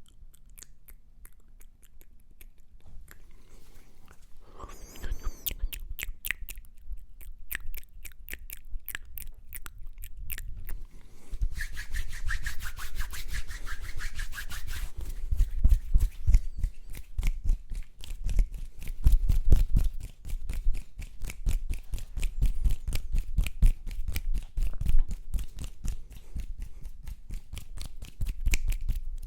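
Close-miked ASMR mouth and hand sounds: a fast, continuous run of small clicks and taps, joined after about eleven seconds by heavier low thuds against the microphone.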